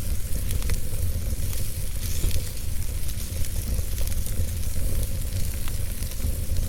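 Fire crackling: scattered sharp pops and snaps over a steady hiss, with a constant low rumble underneath.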